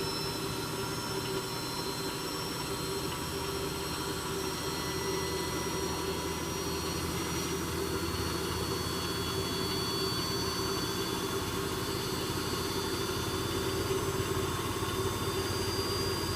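Electrolux W455H commercial washing machine in its high-speed spin extraction: a steady drum-and-motor drone with thin high whine tones that hold nearly level.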